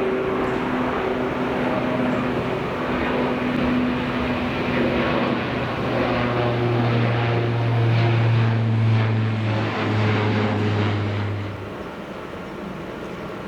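Dash 8 Q400 turboprop taking off: its Pratt & Whitney PW150A engines and six-bladed propellers make a steady low propeller drone over engine rush. It swells to its loudest about eight to nine seconds in and cuts off abruptly near the end.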